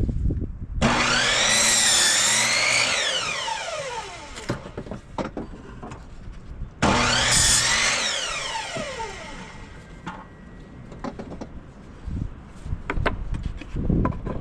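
Electric power tool run twice on wood, each time for about two seconds at full speed before the motor winds down in pitch after release.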